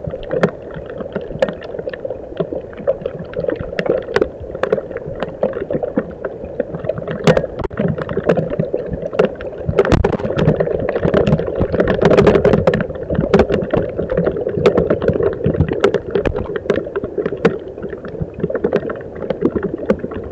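Rain falling steadily, a dense wash of drops with many sharp taps of single drops landing close by, heavier for a few seconds around the middle.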